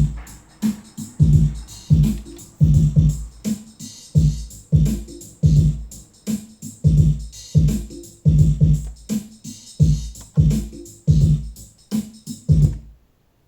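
Drum-machine beat with a synth bass line, played on a Korg Karma and run through an Eventide H3000 effects processor; a steady rhythm of punchy hits that cuts off abruptly near the end.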